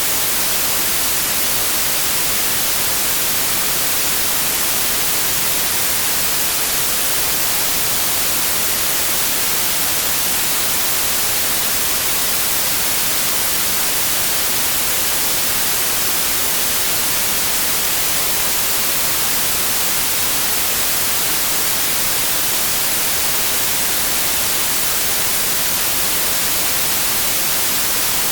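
Synthetic pure white noise, a steady unchanging hiss that is strongest in the high frequencies.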